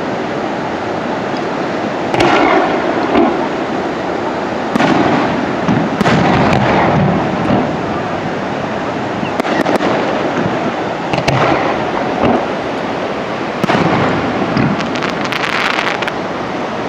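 Fireworks going off: a series of booms, each trailing off over about a second, over a steady noisy background. A rapid run of sharp crackles comes near the end.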